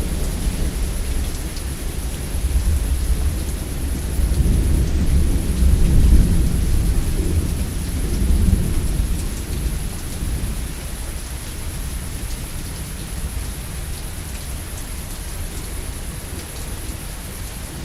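Steady heavy rain with a long roll of thunder that swells about four seconds in, peaks, and rumbles away over the next several seconds, leaving the rain alone.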